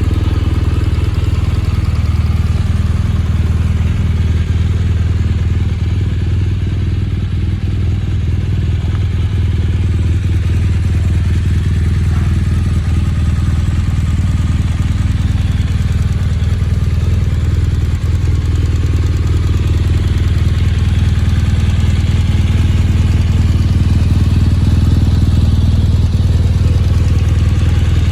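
BMW R1200GS flat-twin boxer engine idling steadily through an Akrapovic aftermarket exhaust, with a deep, even low note.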